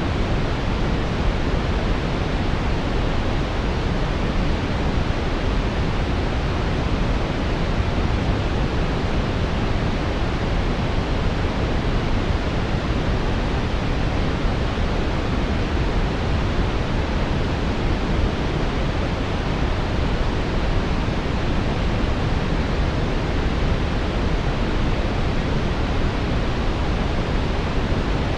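Steady brown noise: an even, deep rushing hiss, strongest in the low end and rolling off toward the highs, without change.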